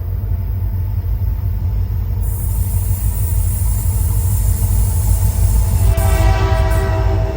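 Train rolling by with a heavy, steady low rumble. About six seconds in, a steady pitched tone with several overtones joins it.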